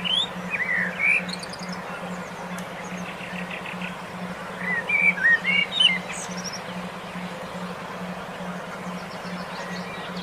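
Songbirds chirping and whistling in quick slurred notes, in two bursts: one at the start and one about halfway through. Under them run a steady hiss and a low hum that pulses about three times a second.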